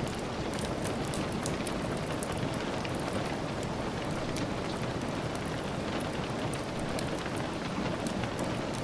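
Steady rain falling, an even hiss with scattered sharp high ticks throughout.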